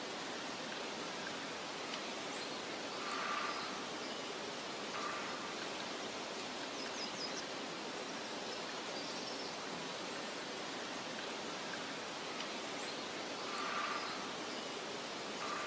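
Meadow ambience: a steady soft wind hiss, with faint high bird chirps now and then and two brief louder swells, about three seconds in and again near the end.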